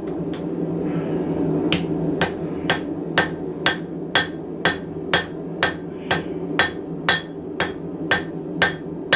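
Blacksmith's hammer striking steel stock on an anvil as it is drawn thinner, with a ringing tone on each blow. One blow, a short pause, then a steady run of about two blows a second, over a steady low hum.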